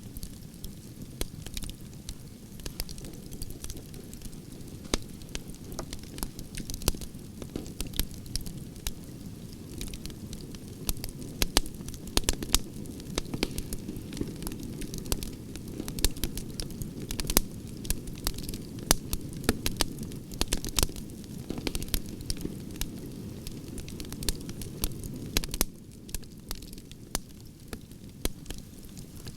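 Firewood fire burning: irregular sharp crackles and pops over a steady low rumble of flames, with the crackling thickest in the middle stretch.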